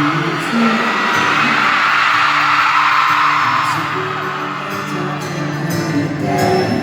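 A live band plays a song's instrumental intro with long held notes while a concert crowd screams over it. The screaming is loudest for about the first four seconds and then eases off.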